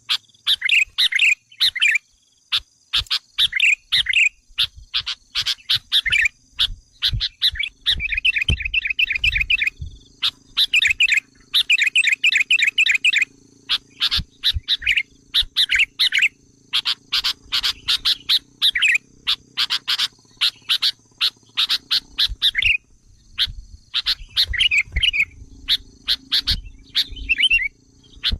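Sooty-headed bulbul lure call: an agitated, near-continuous stream of sharp chirps and short trilled bursts, used to provoke wild bulbuls into coming in.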